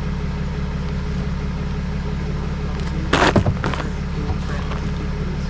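Vehicle engine running steadily at a low, even hum, with a brief loud clatter about three seconds in.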